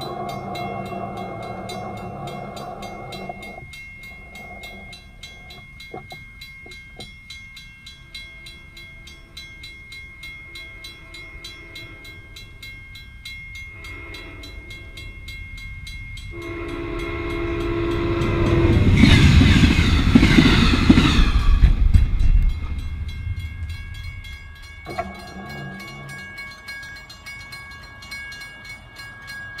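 Amtrak shuttle train, a P42 diesel locomotive and cab car, sounding its horn in several blasts as it approaches a grade crossing, while a crossing bell rings steadily. The train passes loudest about two-thirds of the way through, and its horn sounds again a few seconds later.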